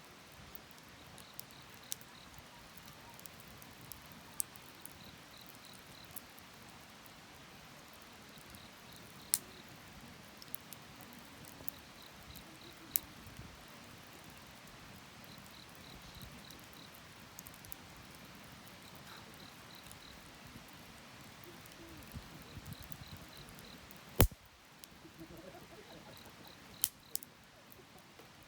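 Wood bonfire crackling, with irregular sharp pops, the loudest about two-thirds of the way through. An insect chirps faintly in short trains of three or four pulses every couple of seconds.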